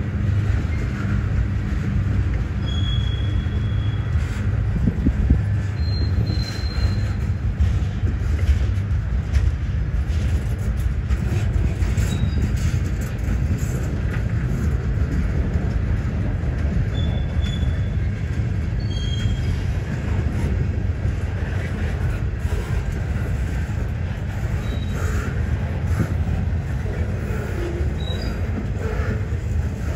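Freight cars of a long CSX manifest train rolling slowly past at about 10 mph: a steady low rumble of steel wheels on rail with light clicking, and a few short high-pitched squeaks.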